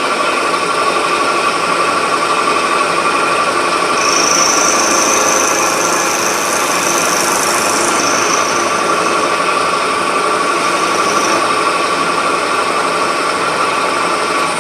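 A workshop machine tool running steadily, its motor whining at a constant pitch. A higher, hissing whine joins from about four to eight seconds in.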